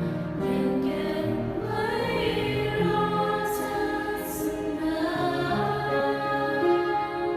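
A choir singing a song in four-part harmony (soprano, alto, tenor and bass), holding long chords that move from one to the next.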